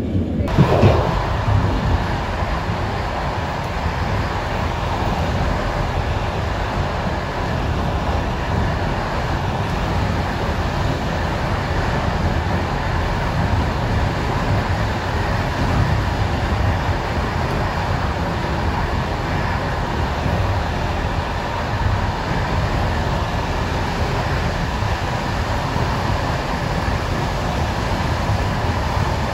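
Steady running noise of a moving passenger train, an even low rumble throughout.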